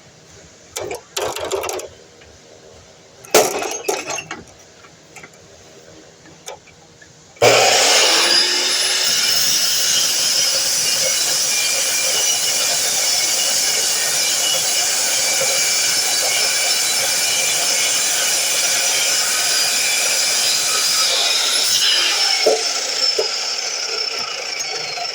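A few knocks and clatter of material being handled, then a DeWalt miter saw's motor starts abruptly about seven seconds in and runs loudly with a steady whine for about fourteen seconds as it cuts the piece. It is then switched off and winds down with a falling whine, with a couple of knocks near the end.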